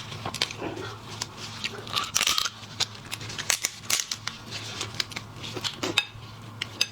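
Seafood shells being cracked and cut apart: a run of irregular sharp clicks and crisp cracks, over a steady low hum.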